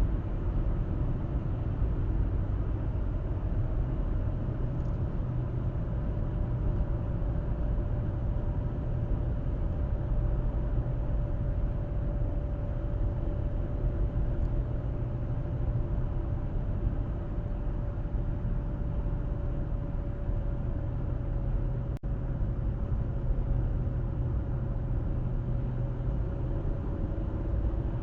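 A car driving along a road: steady tyre and engine rumble with a faint whine that holds almost one pitch. There is one brief click about three-quarters of the way through.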